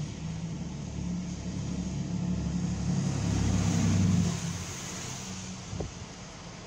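A road vehicle driving past, its engine and tyre noise growing louder to about four seconds in, then fading away.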